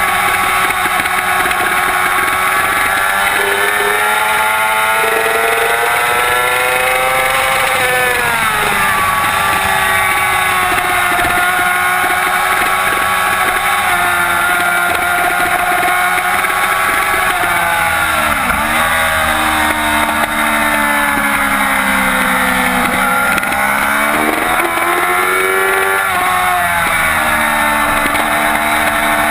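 2007 Yamaha YZF-R6 inline-four engine running hard at racing revs. Its pitch climbs and falls repeatedly with throttle and gear changes, with a sharp drop and recovery a little past halfway.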